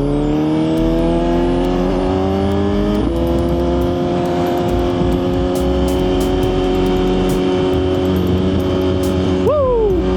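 Suzuki GSX-R1000 inline-four engine climbing in revs, dropping at a gear change about three seconds in, then holding steady at speed with wind rush over the helmet microphone. Near the end the revs jump briefly and fall away.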